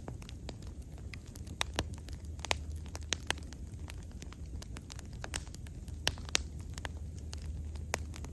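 Wood fire crackling and popping, with sharp irregular pops a few times a second over a steady low rumble.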